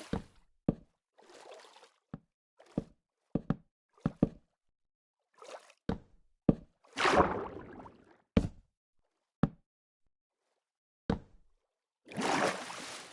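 Scattered sharp knocks and clicks, with two longer rushing swishes about seven and twelve seconds in.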